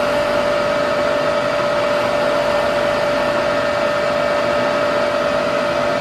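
Electric drilling machine running at a steady speed with a constant high whine over motor noise, as a hole is drilled in a metal bipod part.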